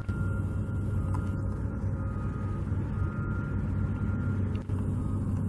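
Steady low engine rumble of heavy machinery or vehicles, with faint thin whining tones on top.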